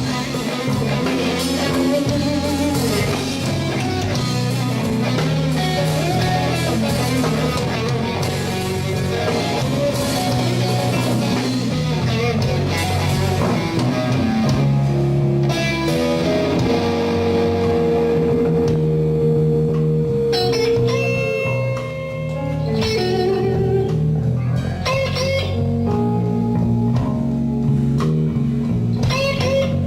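Slow blues played by an electric guitar, bass guitar and drums, with the electric guitar taking an instrumental lead of held, bending notes.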